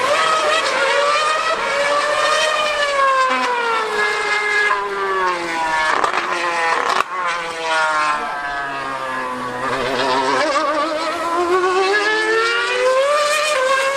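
A 2013-era Formula 1 car's 2.4-litre V8 engine screaming at high revs on track. Its pitch slides down over several seconds, wavers, then climbs again near the end as it accelerates. There is a sharp click about seven seconds in.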